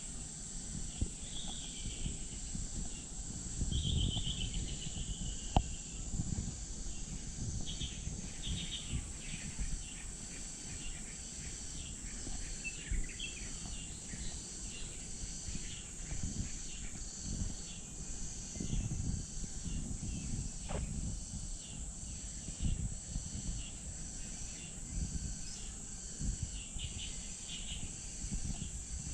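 Insects buzzing steadily at a high pitch, with short bird chirps scattered through and irregular low thuds underneath.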